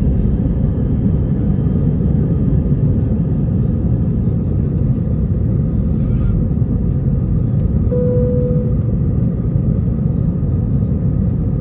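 Steady low rumble inside the cabin of an Airbus A320 climbing just after takeoff: the engines at climb thrust and the rush of air past the fuselage. A brief steady tone sounds about eight seconds in.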